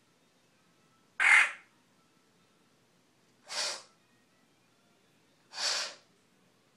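African grey parrot giving three short raspy, hissing calls about two seconds apart, the first the loudest.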